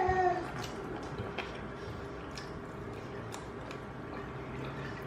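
A person chewing food close to the microphone: faint mouth clicks about once a second.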